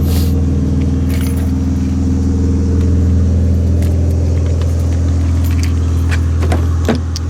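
2006 Honda Accord's 3.0-litre V6 idling steadily when warm, heard through its Fujitsubo 2.5-inch cat-back exhaust with rear muffler deletes as a low, even drone. Light clicks and jingles of keys or handling come and go over it.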